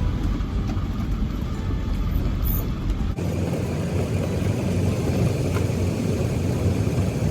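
Converted Ford E-350 4x4 van driving slowly on a rough dirt mountain road, a steady engine and road rumble. The sound changes abruptly about three seconds in.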